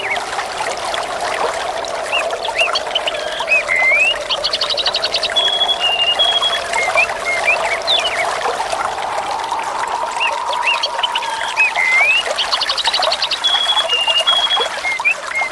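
Water trickling steadily with small birds chirping and whistling over it; the same run of bird calls comes round again about every eight seconds, as in a looped recording.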